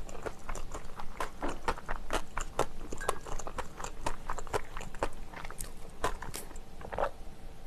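Close-up crunchy chewing and biting of food, a run of irregular crackling crunches several times a second.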